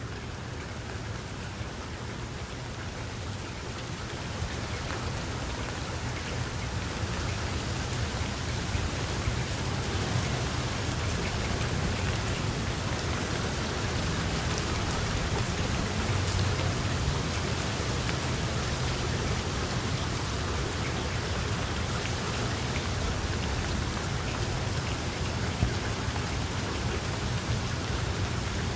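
Steady rainfall with scattered individual drop ticks, growing a little louder over the first several seconds and then holding steady.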